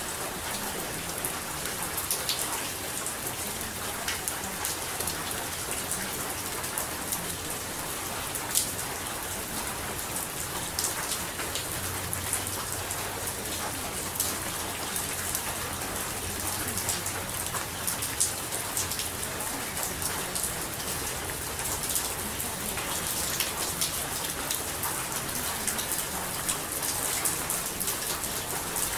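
Steady rain falling, many small sharp drop ticks over an even hiss.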